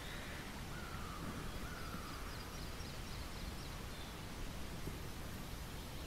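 Faint bird calls over a steady outdoor hiss: a gliding call in the first two seconds, then a quick run of high chirps.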